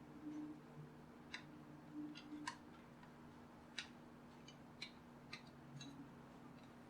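Faint, irregular small clicks of a screwdriver working screws out of a Bluetooth speaker's housing, over a faint steady low hum.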